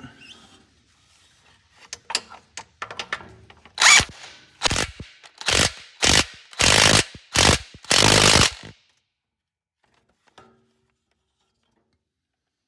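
Hand ratchet wrench clicking through a series of quick strokes while a transmission bolt is tightened down, a few light clicks at first, then about seven loud rasping strokes that stop around nine seconds in.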